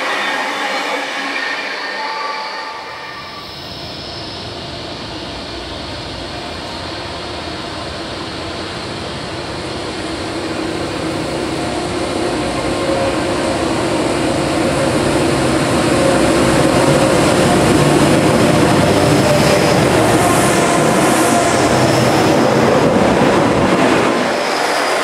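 An electric double-deck passenger train pulling away for the first few seconds, then a diesel freight train approaching and running through the station, its engine and wheel noise building to loud as it passes, with a few brief high wheel squeals.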